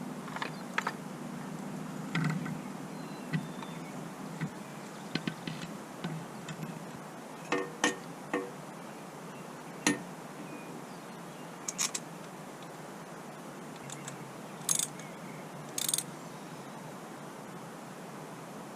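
Scattered light metallic clicks and clinks of hand tools and small parts being handled at a motorcycle's opened crankcase, around the starter idler gear, over a low steady hum. The sharpest clinks come around the middle and again near the end.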